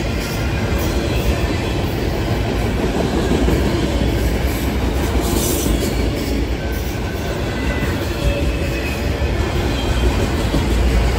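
Autorack freight cars rolling past on the rails: a steady rumble and clatter of steel wheels.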